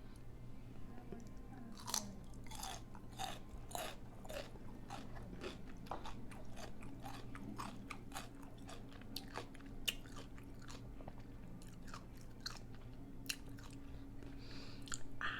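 Close-miked chewing of a chorizo-filled taco boat, with many small sharp crunches from the shell as it is bitten and chewed.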